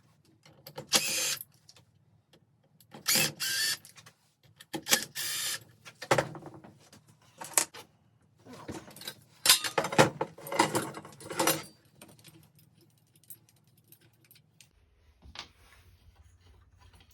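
Metal ceiling-fan parts, the pull-chain switches and their chains, rattling and clinking in short bursts as they are worked loose by hand. The bursts stop after about twelve seconds.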